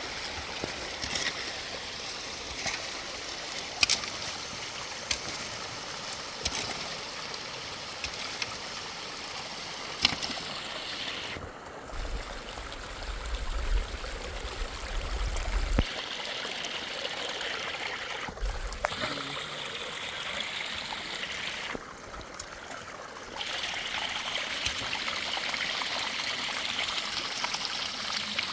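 Steady rush of running water with scattered sharp ticks and drips. The hiss thins out briefly three times, and a low rumble comes in around the middle.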